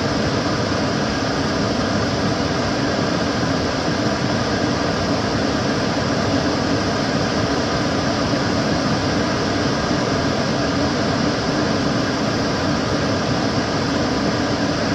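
Kitchen cooker hood extractor fan running steadily, a constant whooshing rush of air with a faint hum and no change in speed.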